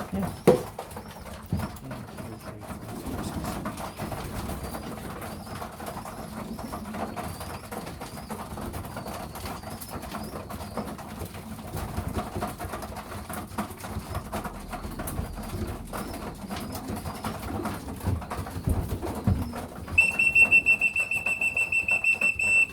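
Racing pigeons cooing steadily in the loft, with a few sharp knocks near the start. For about the last three seconds a loud, high, steady-pitched tone sounds, pulsing rapidly.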